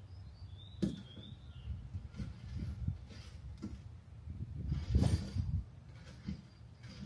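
Irregular knocks, clinks and clunks of hand tools and parts being handled during work on a car's engine, the loudest cluster about five seconds in. A short high chirp comes about a second in.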